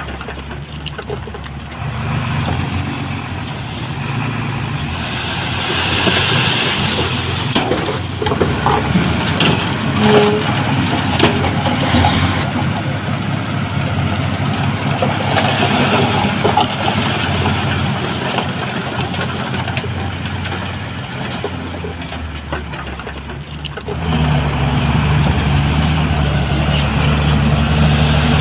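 Diesel engine of heavy earthmoving machinery running under work, with scattered metallic knocks and clanks. About four seconds before the end the engine note gets louder and steadier.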